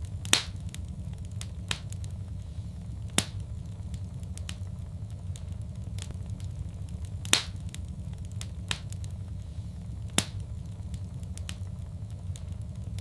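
Wood fire crackling: sharp pops every one to three seconds over a steady low rumble, the loudest pops about half a second in and about seven seconds in.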